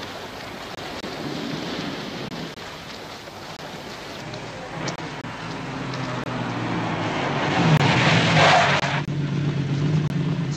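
Lamborghini Miura P400 SV's V12 engine running, its steady low note building up after a few seconds of hiss, then revving hard once about eight seconds in before settling back.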